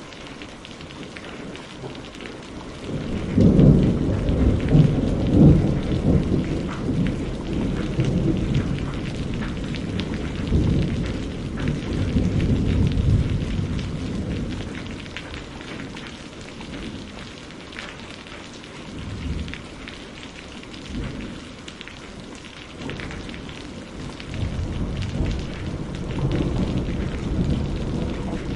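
Steady rain with rolling thunder: a long rumble builds about three seconds in and slowly fades, and a softer rumble rises again near the end.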